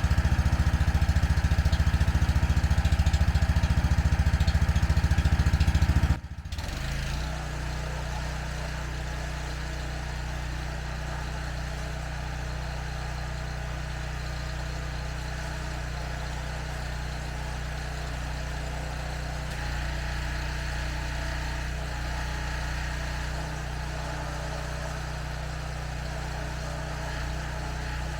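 Pressure washer's small engine running steadily. About six seconds in the sound breaks off for a moment, then continues steadier and quieter.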